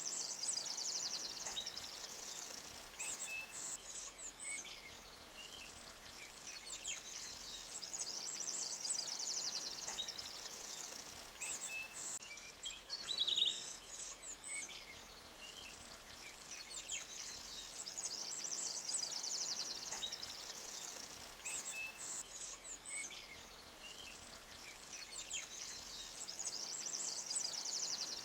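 Forest ambience: songbirds chirping here and there, with a high rapid trill that swells and fades every eight to ten seconds, over the soft steady rush of a clear stream. One chirp about thirteen seconds in stands out louder than the rest.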